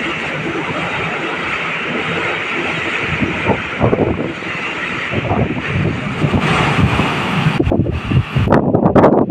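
A passing train's steady rushing rumble, with wind buffeting the microphone in gusts near the end.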